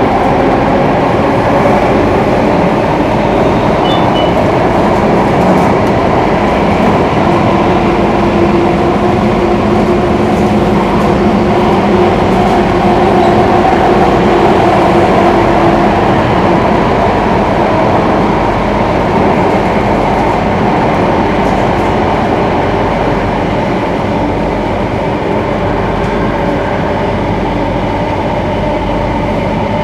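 Singapore MRT train running at speed between stations, heard from inside the carriage: a steady rumble of wheels on track with several humming tones from the traction motors, which shift slightly in pitch. It eases a little past the middle.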